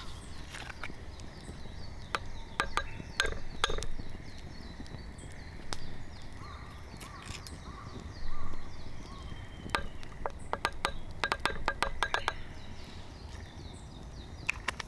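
Wood campfire crackling: irregular sharp snaps and clicks, coming in quick clusters between about ten and twelve seconds in, with one louder dull knock a little past eight seconds.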